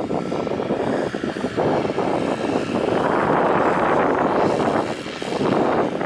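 Jet airliner engine noise mixed with gusty wind rumbling on the microphone; the level swells and dips unevenly.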